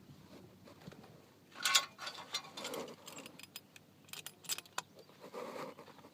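Metal clinking and rattling of handled metal objects: a loud clatter about one and a half seconds in, then scattered sharp clicks, with a run of them around four seconds in.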